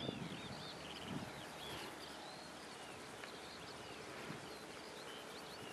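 Small birds chirping, with many short slurred, rising and falling calls repeated over a steady outdoor background hiss.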